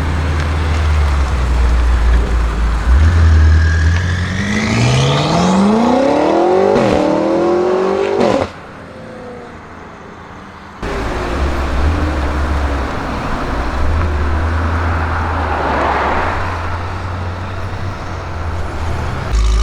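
BMW M5 F90's twin-turbo V8 with a SuperSprint exhaust accelerating hard, its pitch climbing steeply with a brief dip at a gear change, then cut off abruptly about eight seconds in. A low steady rumble runs before and after, with a swell of rushing noise near the end.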